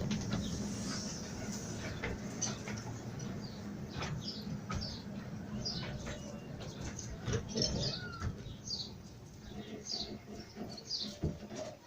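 A bird calling over and over with short, high, falling chirps about once a second. Under it, a low rumble from the miniature train fades away.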